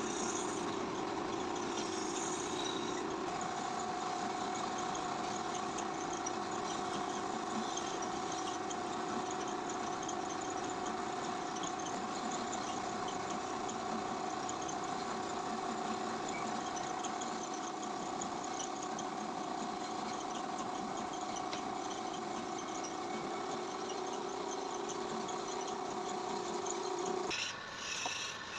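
A power tool's motor running steadily with a humming tone that steps up in pitch a few seconds in. It cuts off near the end.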